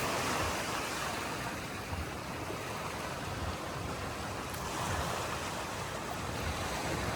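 Surf washing on a beach, a steady rushing noise that swells a little about a second in and again around five seconds in.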